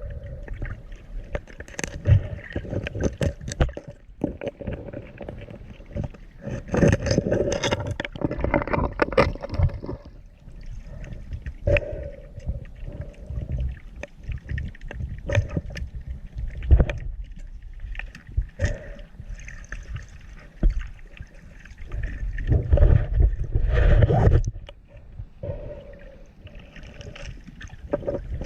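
Sea water sloshing and gurgling around a diver's camera, with a low rumble, irregular knocks and louder surges of movement about a quarter of the way in and again near the end.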